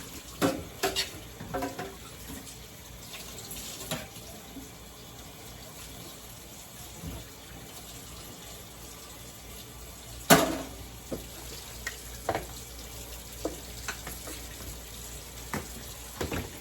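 Kitchen tap running water into the sink, with scattered sharp knocks and clatters of things handled in it, the loudest about ten seconds in.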